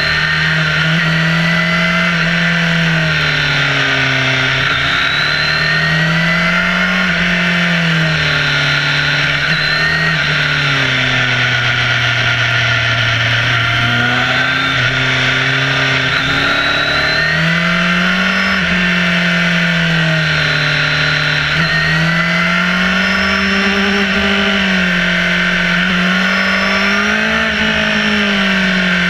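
Motorcycle engine heard close from a camera on the bike, its pitch rising and falling every few seconds as the rider rolls on and off the throttle through a series of bends. A steady rush of wind noise sits over it.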